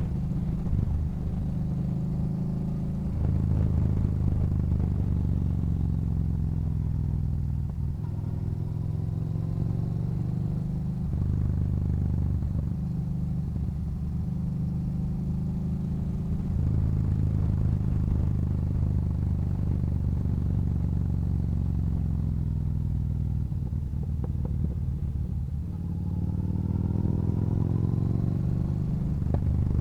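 Yamaha Bolt's 942 cc air-cooled V-twin running under way, its note rising and falling as the throttle is opened and gears are changed, with three louder pulls.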